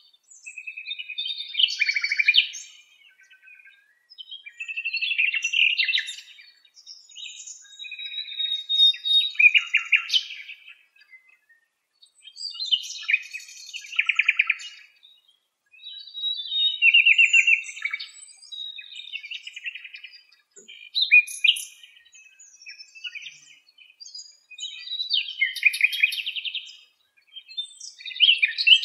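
Songbirds singing: short, bright song phrases, some of them rapid trills, repeating every two to four seconds.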